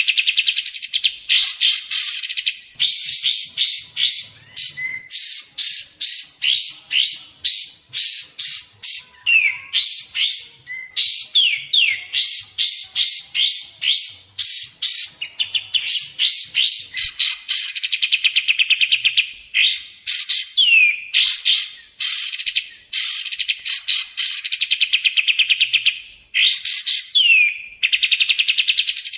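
Kapas tembak bulbul calling: long runs of fast, sharp chattering notes, broken now and then by a short downward-sliding whistle. It is a recording of the kind used as a lure call.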